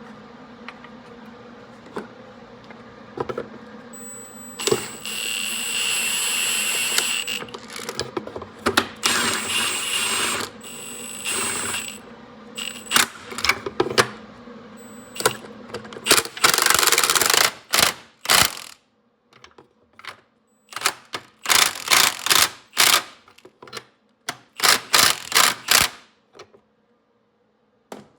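A power tool run in repeated bursts while fastening parts on the car, each burst a hiss with a steady high whine. The bursts grow shorter and come in quick succession for the last several seconds.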